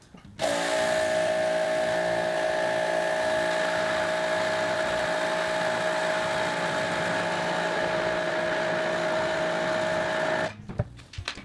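Husqvarna 2000 PSI electric pressure washer running with the trigger held: a steady motor-and-pump whine over the hiss of the spray, starting abruptly about half a second in and cutting off abruptly near the end. It is running during a one-minute flow-rate test into a bucket.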